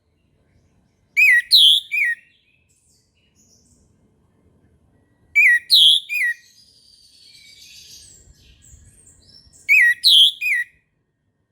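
Orange-headed thrush singing in its loud 'ngeplong' style: a short phrase of three sharp, swooping notes, given three times about four seconds apart. Soft, quiet twittering runs between the second and third phrases.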